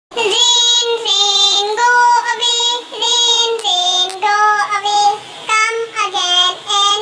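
A child's high voice singing a nursery rhyme in short held notes, starting a moment in.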